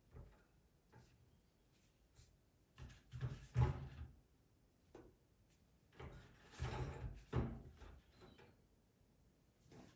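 Knocks and clatter of household things being handled, in two bursts about three and seven seconds in, with a few light taps between.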